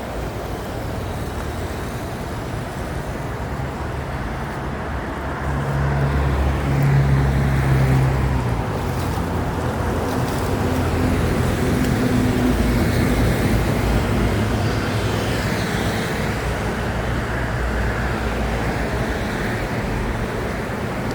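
Excavator's diesel engine running steadily, revving up under load for a couple of seconds about six seconds in, then settling back to a steady working drone.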